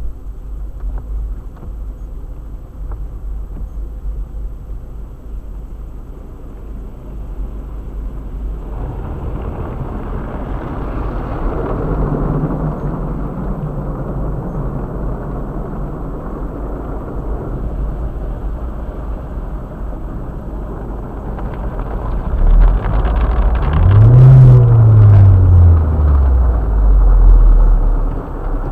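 2008 Chevrolet Cobalt driving, heard from the in-car dash cam: a steady engine and road rumble. Near the end the engine revs up loudly and then drops back down in pitch.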